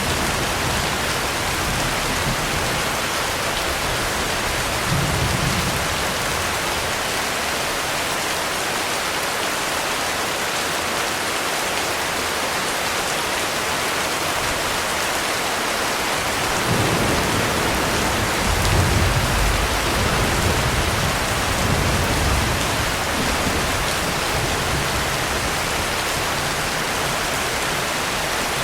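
Heavy rain falling steadily, with a low roll of thunder swelling in a little past halfway and fading away again.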